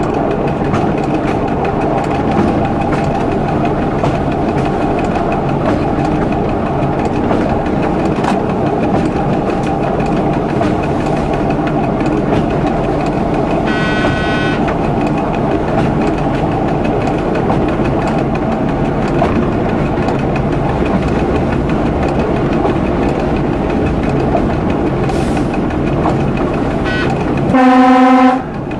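A local train running steadily along the track, heard from inside the driver's cab, with a short high-pitched tone about halfway. Near the end the train horn gives one short, loud blast.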